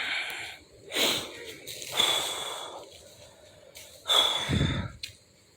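A person breathing hard: several loud, noisy breaths, each about half a second to a second long, with a pause of about two seconds before the last one.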